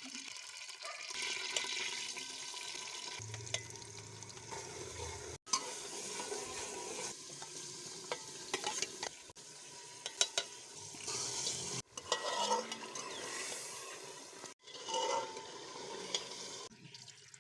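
Food frying in a pot while being stirred, with a spoon clinking against the pot several times in the middle. The sound breaks off abruptly a few times.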